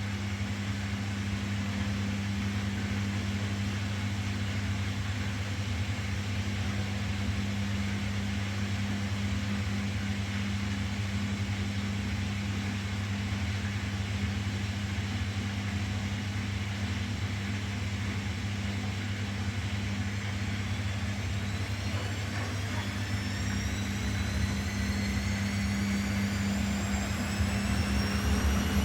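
Washing machine running with a steady motor hum; about two-thirds of the way in, a motor whine starts rising in pitch as the drum speeds up into the spin cycle.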